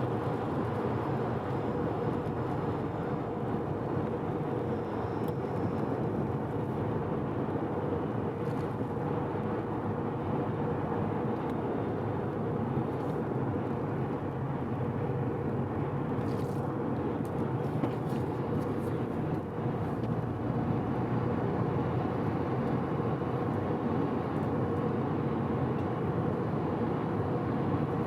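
Mazda FD3S RX-7's twin-turbo 13B rotary engine holding a steady highway cruise with tyre and road noise, the freshly rebuilt engine run gently at moderate load.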